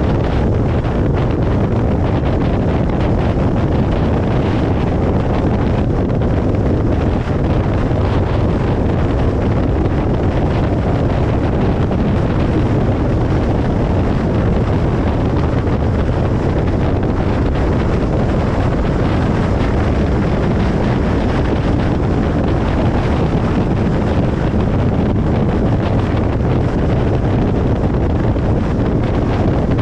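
Steady road and wind noise of a car driving at speed on a motorway: an even, unbroken rush, heaviest in the low end.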